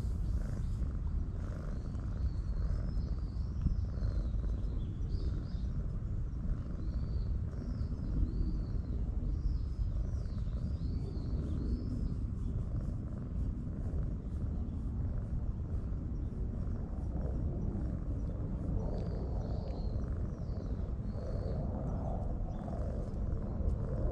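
Outdoor ambience: a steady low rumble with small birds chirping, in runs of quick, high chirps through the first half and again near the end.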